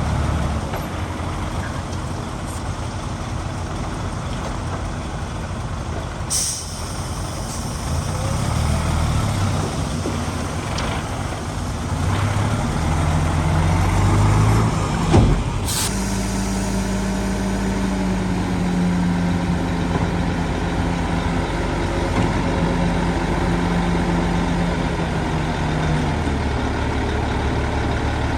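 Heavy diesel earthmoving machinery running, its engine pitch rising and falling with the load. Two sudden sharp hisses cut in, about six seconds in and again near the middle.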